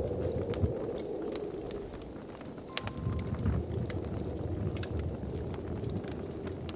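Wood fire in a fireplace crackling, with irregular sharp pops and snaps over a low steady rumble of flames.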